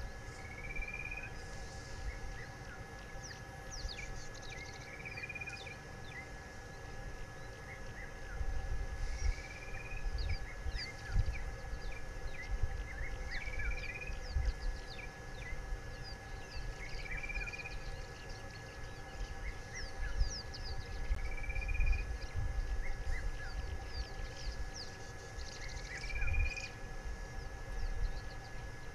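A bird repeats a short rising whistle about every four seconds over many quick, high chirps, a steady faint high tone and an uneven low rumble.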